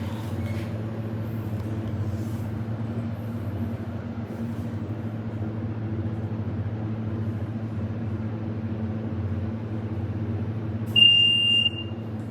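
Delaware glass hydraulic lift running with a steady low hum, then one loud chime about eleven seconds in: a single high tone lasting under a second.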